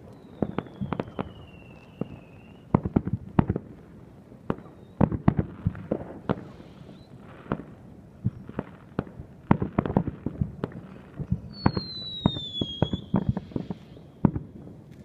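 Fireworks going off: a string of irregular sharp bangs and pops, several a second at times. A falling whistle sounds at the start and another, louder one about twelve seconds in.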